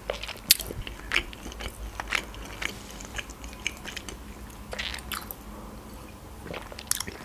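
Chewing a mouthful of pizza, with irregular crunchy clicks from the crust, then drinking from a glass near the end.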